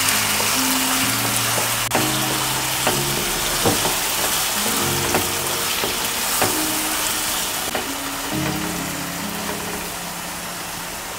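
Marinated chicken pieces sizzling in hot oil in a pan, stirred with a wooden spatula that clicks against the pan a few times. The sizzle eases a little in the last few seconds. Background music plays underneath.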